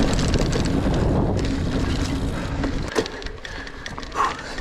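Mountain bike rolling fast down dirt singletrack: wind rushing over the microphone with tyre and frame rattle, easing off a little after about two and a half seconds, with a sharp knock about three seconds in.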